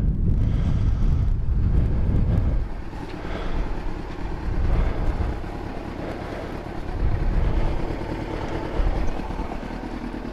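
Motorcycle engine, a Yamaha FZ1's inline-four, running at low speed or idle as a low, steady rumble. It is loudest for the first couple of seconds, then eases off with small swells.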